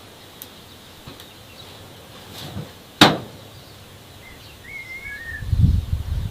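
Outdoor background noise with a few faint bird chirps about four to five seconds in. A sharp click about three seconds in, and a low rumbling thump near the end.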